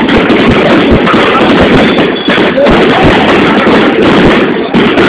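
Fireworks going off in a loud, continuous barrage of rapid low bangs, with crowd voices mixed in.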